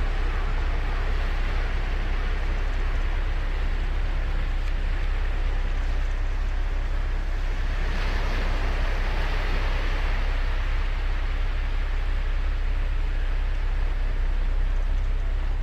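Ocean surf: a steady wash of breaking waves, with one wave breaking louder and brighter about eight seconds in.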